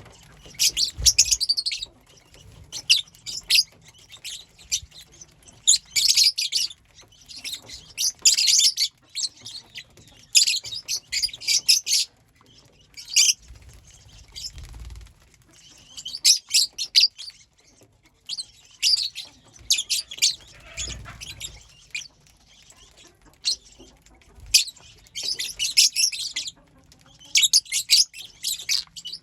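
Pet lovebirds chirping: bursts of rapid, shrill chirps, each burst a second or two long, coming every couple of seconds.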